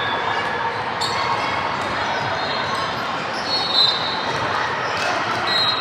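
Basketball game in a gym: a ball dribbling on the court over steady crowd chatter, with high-pitched sneaker squeaks about three and a half seconds in and again near the end.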